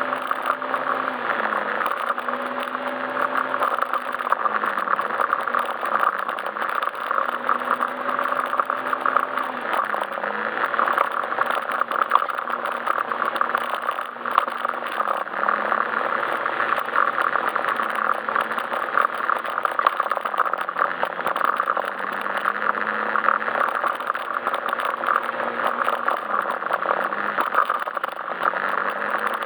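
Yamaha Majesty S scooter's single-cylinder engine running under way, its pitch rising and falling every few seconds with the throttle, under heavy wind and road noise.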